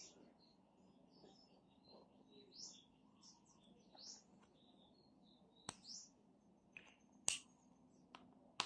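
Small birds chirping faintly in the background in short, scattered calls. A few sharp clicks stand out above them, the loudest about seven seconds in, and the last one near the end as a brush pen is set down on the plastic clipboard.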